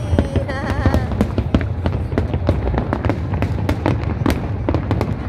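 Fireworks display: a rapid, continuous crackle of many small bursts over a steady low rumble of shells exploding.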